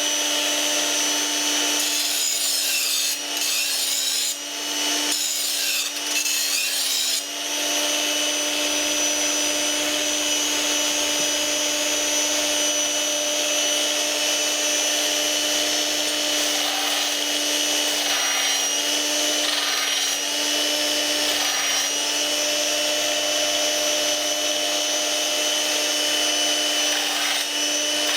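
Powered knife-and-scissor sharpener running with a steady motor hum, with a blade rasping against the sharpening wheel. The grinding changes in short strokes in the first few seconds.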